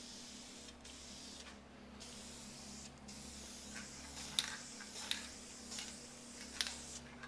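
Spray paint hissing out of the nozzle in several bursts with short breaks between them, as a coat goes onto wood, with a few light clicks in the second half.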